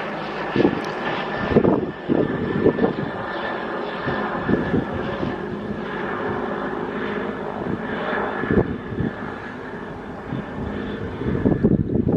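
Helicopter running nearby, a steady engine and turbine tone with irregular rushing surges throughout.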